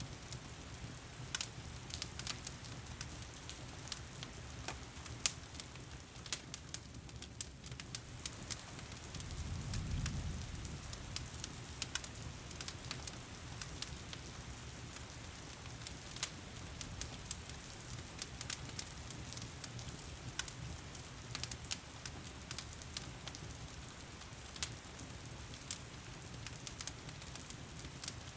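Wood fire crackling in a fireplace, with frequent sharp pops, over the steady patter and hiss of heavy rain. About ten seconds in, a soft low rumble swells and fades.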